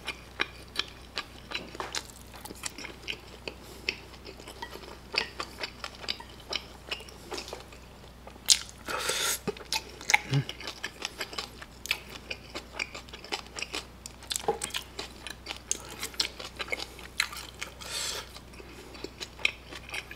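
Close-miked mouth sounds of a person biting and chewing pieces of fried pork tangsuyuk coated in kimchi sweet-and-sour sauce and melted cheese: a steady run of short wet clicks and smacks, with a louder stretch about nine seconds in.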